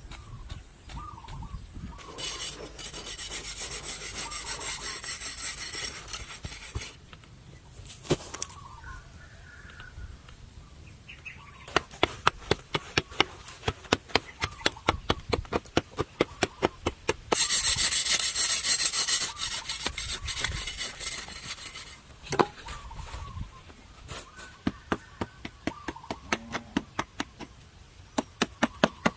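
Rasping, scraping strokes of a hand tool working a hard surface, in two long stretches, with a run of quick, regular taps at about five a second between them.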